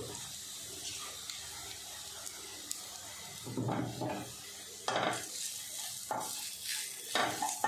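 Sliced onions and crushed whole spices sizzling in ghee in a stainless steel kadai, a steady hiss. From about halfway through, a wooden spoon stirs and scrapes against the steel pan in several quick strokes.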